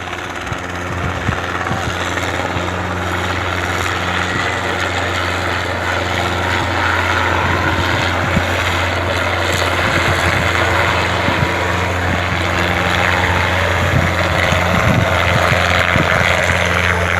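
Helicopter approaching, its rotor and engine noise growing steadily louder.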